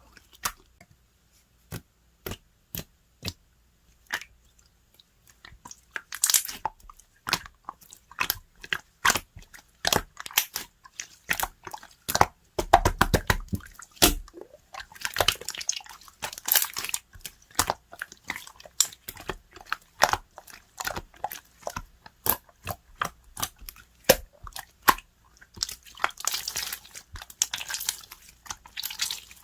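Clear slime being squeezed and poked by hand, making sticky clicks and small pops: a few spaced clicks at first, then a dense, irregular crackle of them from about six seconds in.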